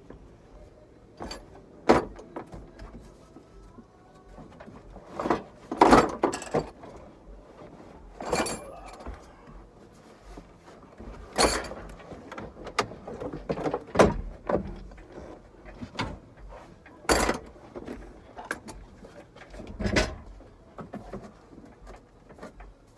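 Irregular knocks, clunks and rattles of car interior parts being handled and pulled loose, about a dozen sharp hits spread through the stretch, the loudest around six seconds in.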